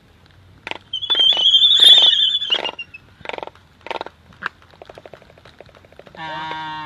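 Animal calls: a run of sharp clicks with a high, shrill squeal about a second in, then a steady bleat-like call near the end.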